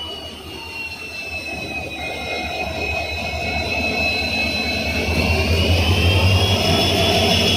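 WDG-3G diesel locomotive throttling up to pull away: a high turbocharger whine over a deep engine drone, growing louder. The whine sags slightly, then climbs in pitch from about five seconds in.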